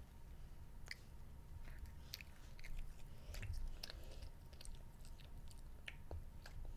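A child biting and chewing a marshmallow Peep, heard as faint, scattered small mouth clicks.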